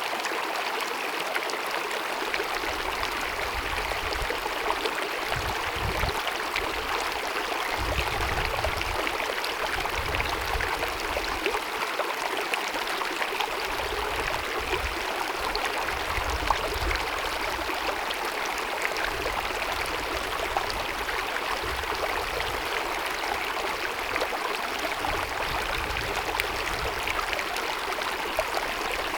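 A small mountain brook running and babbling steadily over rocks.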